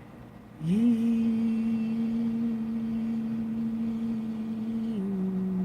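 A person humming one long, low note, sliding up into it just under a second in, holding it steady, then dropping a little lower about five seconds in. The hum imitates a faint, very low tune that the hummer says he hears.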